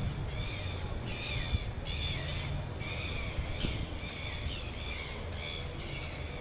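Birds calling: a steady run of short, pitched calls, about two a second, over a low steady rumble.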